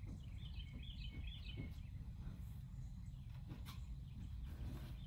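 A songbird sings one quick phrase of short chirps near the start, over a steady low rumble of outdoor background noise. A few faint clicks come from a small plastic toy being handled.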